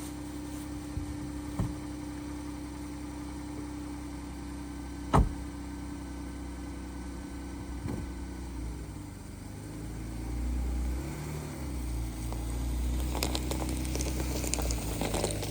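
Vehicle engine idling with a steady hum, one sharp knock about five seconds in, and the low rumble swelling in the last few seconds.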